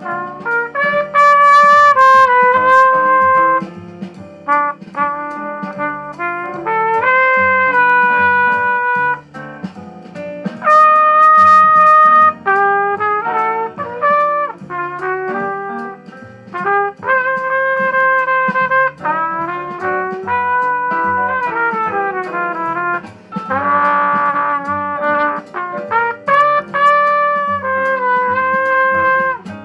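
C trumpet playing a slow jazz ballad melody in held notes and phrases over a bass and guitar accompaniment.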